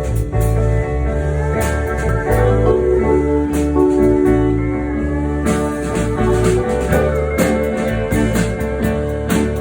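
Live band playing an instrumental passage: guitar over a bass line, with frequent drum and cymbal hits.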